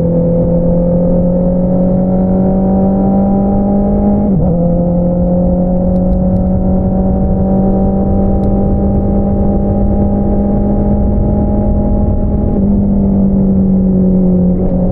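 Honda CBR650R's inline-four running through an Akrapovič single-outlet exhaust at steady mid revs. The pitch creeps slowly upward, breaks briefly about four seconds in as a gear changes, climbs again, then eases down near the end as the throttle comes off.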